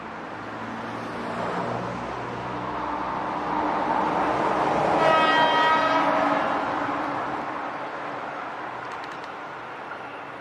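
JR East 209 series 3500 electric train passing over a level crossing, its running noise building to a peak and fading away. About halfway through it sounds its horn once for about a second and a half, the warning it gives at this crossing, which has no barriers or alarm.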